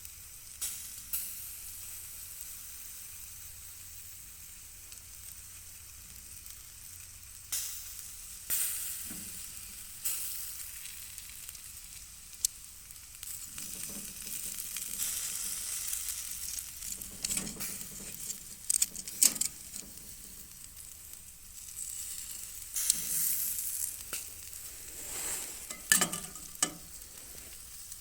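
Sausages sizzling over hot charcoal, with a steady hiss of dripping fat broken by sharp crackles and pops. The pops come in clusters partway through and again near the end.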